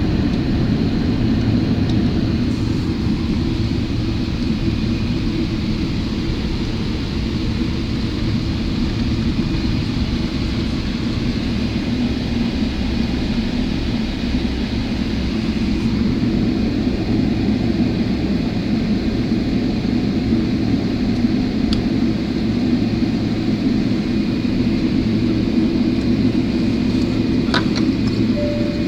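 Steady low rumble and hiss of a Boeing 777's passenger cabin: engine and airflow noise heard from inside, with a faint steady high tone over it.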